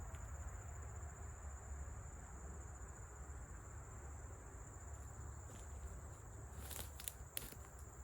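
Faint woodland ambience: a steady high insect drone with a low rumble underneath, and a few faint clicks a little past the middle.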